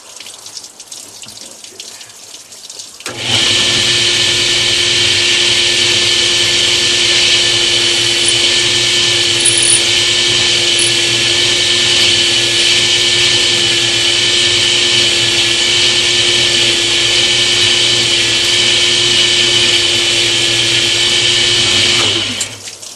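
Water running for the first few seconds, then an electric drill starts about three seconds in and runs at a steady speed with a constant whine. It is boring through natural stone tile with a small 5/16-inch bit under running water. It stops shortly before the end.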